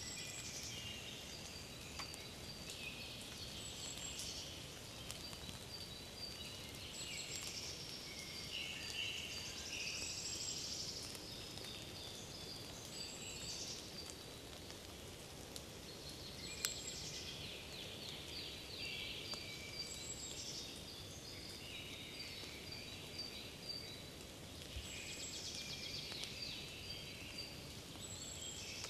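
Birdsong in a spring forest: several songbirds singing in overlapping, repeated chirping phrases over a steady low background noise. A single sharp click about two-thirds of the way through.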